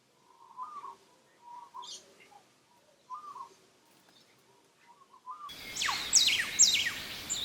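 Bird calls: soft, short calls repeating about every second and a half, then, about five and a half seconds in, louder sharp whistled calls that fall steeply in pitch, over a noisy background.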